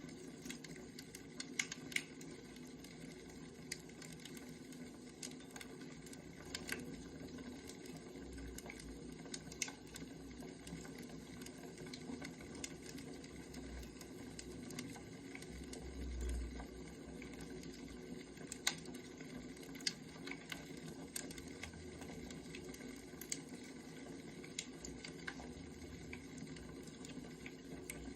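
Wood fire crackling: scattered, irregular sharp pops and snaps over a steady low hiss.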